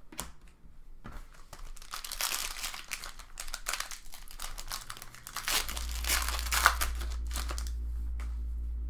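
Plastic trading card pack wrapper being torn open and crinkled by hand. About halfway through, a steady low hum starts up and keeps going.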